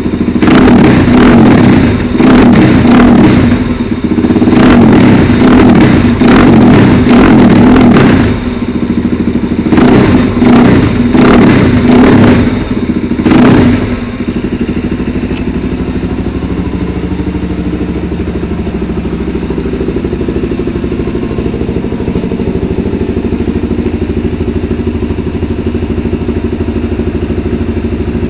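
Suzuki DR-Z400SM single-cylinder four-stroke engine, very loud through an exhaust with the dB-killer baffle removed. It is blipped hard about a dozen times in quick succession, then settles to a steady idle about halfway through.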